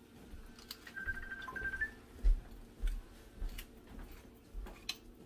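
Hand pepper mill grinding black peppercorns: scattered dry clicks and crunches, with a few low bumps as the mill and bowl are handled.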